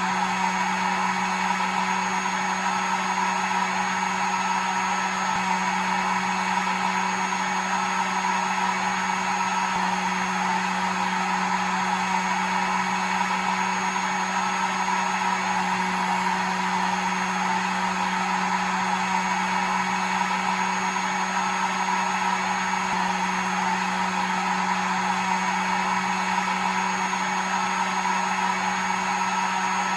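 Hair dryer running steadily: an even rush of blown air over a constant motor hum, unchanging throughout.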